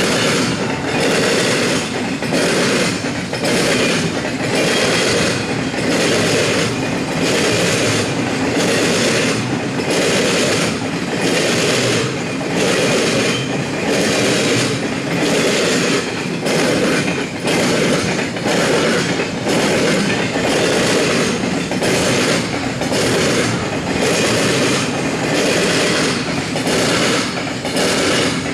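Freight train cars rolling past at steady speed, their wheels clacking rhythmically over rail joints, about one beat a second, over a continuous loud rumble and rush of wheels on rail.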